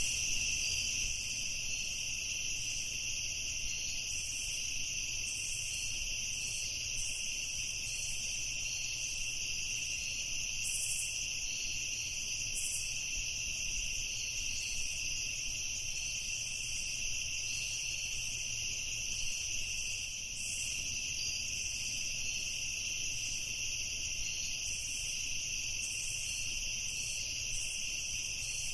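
A steady chorus of night insects, crickets chirping without a break in two high-pitched bands.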